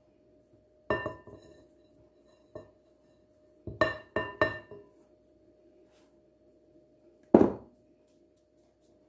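Kitchenware clinking: a few sharp strikes that ring briefly. There is one about a second in, a quick run of three about four seconds in, and a heavier clink near the end, under a faint steady hum.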